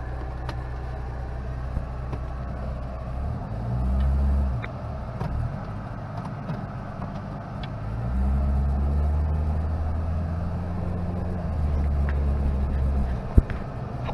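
Mitsubishi Pajero Mini's 660 cc four-cylinder engine and performance muffler, heard from inside the cabin as the little SUV pulls away and drives. The engine note rises briefly about four seconds in, then again for a longer pull from about eight seconds in. There is a single sharp knock about a second before the end.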